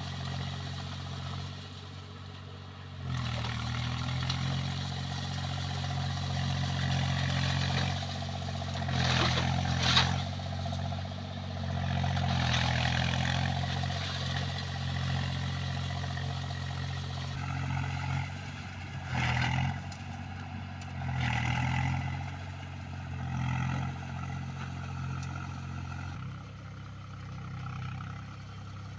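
Swaraj 735 FE tractor's three-cylinder diesel engine working under load while puddling a flooded paddy field. The engine note steps up about three seconds in, swells several times in the middle, and settles lower near the end.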